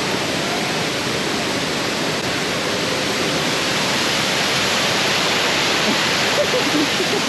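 Waterfall pouring into a river pool: a steady, even rush of water.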